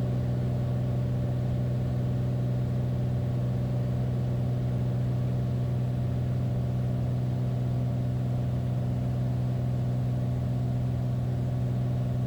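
Beechcraft Bonanza's six-cylinder piston engine and propeller droning steadily at reduced approach power, heard from inside the cabin.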